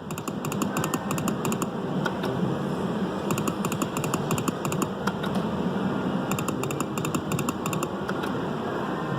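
Slot machine giving out bursts of rapid electronic ticking, a cluster every few seconds as the game plays, over a steady casino background din.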